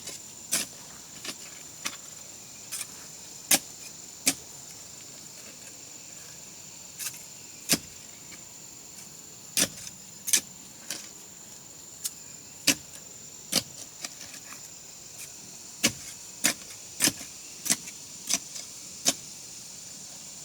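Sharp, irregular knocks or taps, one or two a second with short pauses, over a steady thin high-pitched whine.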